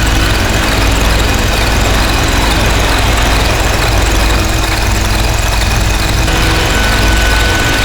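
Harsh noise wall from DIY noise synthesizers fed through distortion pedals. It is loud and unbroken, with a heavy low rumble, a steady high whistle that drops out about a second in and comes back near the end, and faint rising-and-falling sweeps up high.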